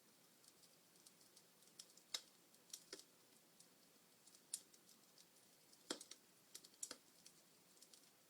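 Wood fire of burning logs crackling faintly: irregular sharp snaps and pops, a few louder ones among many small ticks, over a faint hiss.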